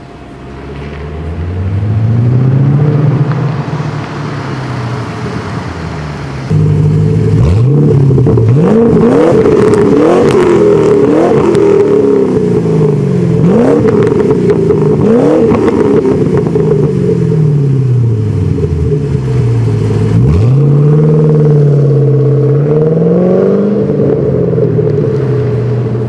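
2008 Ford Mustang GT's 4.6-litre V8 through a Pypes X-pipe and Borla Stinger S-Type axle-back mufflers, revved once slowly and let fall back to idle. About six seconds in it suddenly gets louder and is blipped sharply many times, each rev dropping back to idle. Near the end it is held at a raised rev for a few seconds.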